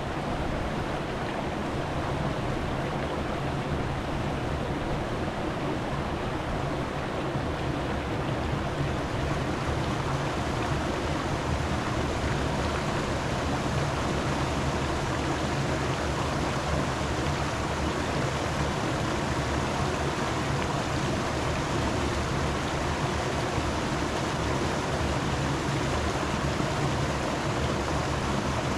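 Steady rushing noise, even throughout, with a low steady hum beneath it.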